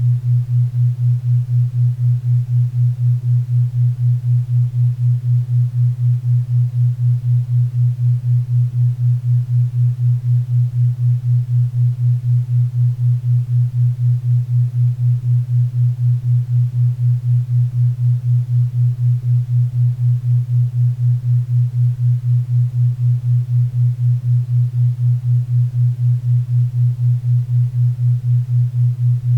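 A 4 Hz theta-wave beat: a low hum-like tone pulsing evenly about four times a second, over faint pink and brown noise.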